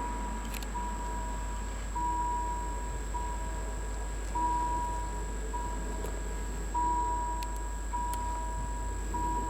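Level crossing warning bell ringing electronically: a single high tone repeating about once a second, alternating louder and softer strokes, warning that a train is approaching and the barriers are down or closing.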